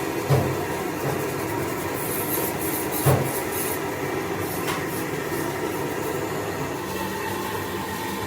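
Steady mechanical rumble, with two sharp knocks, one just after the start and one about three seconds in, and a brief hiss in between.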